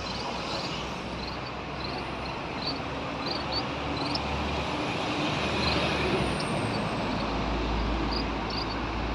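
Steady road traffic noise, with a deeper vehicle rumble building near the end. Short high chirps are scattered throughout.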